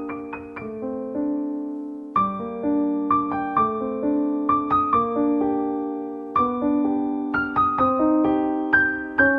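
Background piano music: a gentle melody of struck, sustained notes, with new phrases beginning about two seconds in and again about six seconds in.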